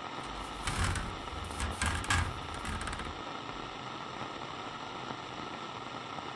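Walkie-talkie static: a steady hiss, with crackling bursts and a low rumble over the first three seconds, then an even hiss.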